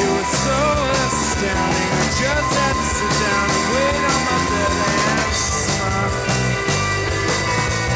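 Live rock band playing: electric guitars, bass and drum kit, with cymbal crashes and a wavering, bending lead line.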